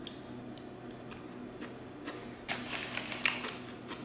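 Close-up mouth sounds of someone chewing French fries: soft scattered clicks, with a denser run of crackly clicks about two and a half seconds in that lasts about a second.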